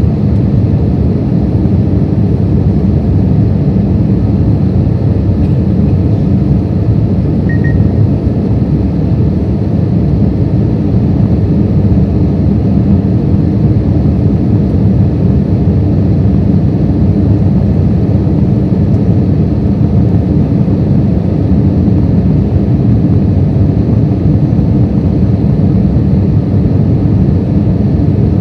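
Steady, loud cabin noise inside an Airbus A320-200 on approach with its landing gear down: an even rumble of airflow and engines with no change in pitch.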